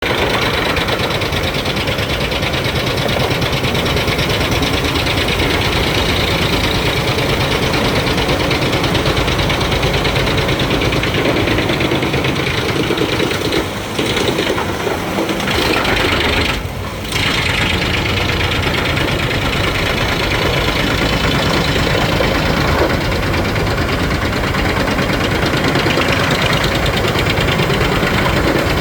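Jenz HEM 561 drum wood chipper running steadily, its engine and drum making a continuous loud machine noise that dips briefly twice near the middle.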